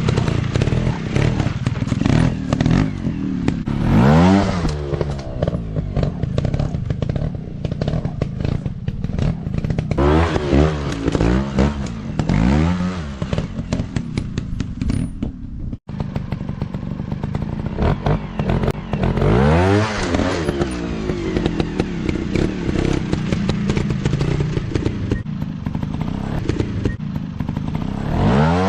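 Dirt bike engine running low between about five sharp throttle revs that sweep up in pitch, with scattered knocks and clatter.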